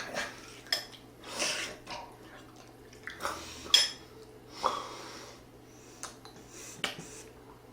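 Eating utensils clinking and scraping against a dish at irregular intervals, with a sharp ringing clink near the middle.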